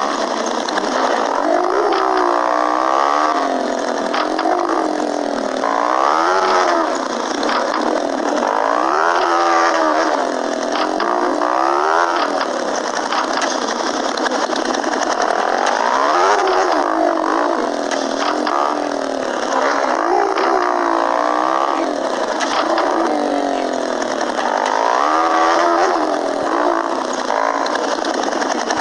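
Small motorcycle engine accelerating through the gears. Its pitch climbs and then drops at each gear change, over steady wind rush on the microphone.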